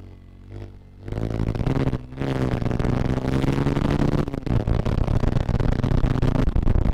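Bajaj Pulsar motorcycle's single-cylinder engine idling low, then revving up about a second in as the bike pulls away. It dips briefly about two seconds in, then runs on loud and steady under way.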